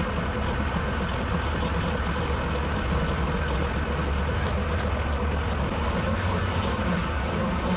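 Farm tractor engine running steadily while driving a bush hog rotary cutter, an even, unbroken hum with a strong low rumble.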